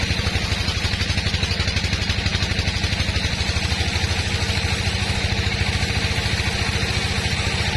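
Sawmill machinery's engine running steadily with an even, rapid chugging beat.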